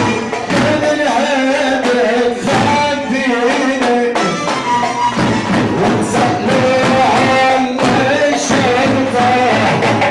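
Live Arabic party music: a wavering melody with some singing over instruments, driven by frequent percussion hits.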